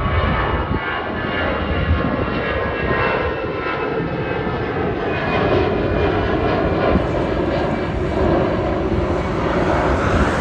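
Jet airliner's engines running loud and steady close by, a high whine of several tones over a deep rumble.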